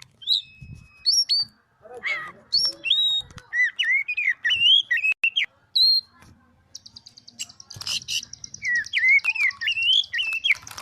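Oriental magpie-robin (kacer) singing in full voice: quick strings of clear whistled notes that swoop up and down, joined about two-thirds of the way through by a fast buzzing trill.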